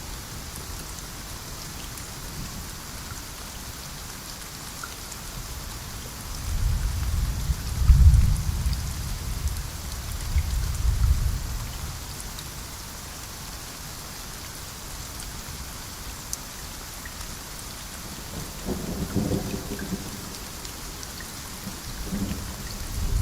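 Steady rain with rolling thunder. A long, low rumble swells about a quarter of the way in and peaks twice, a weaker rumble follows later, and another begins to build near the end.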